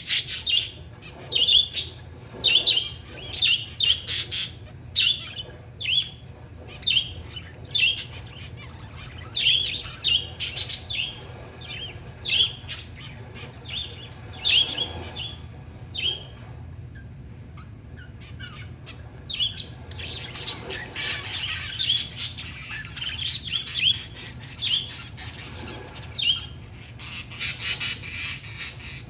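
Pet parakeets and zebra finches chirping and calling in short, rapid notes. There is a brief lull a little past the middle, then busier chatter toward the end.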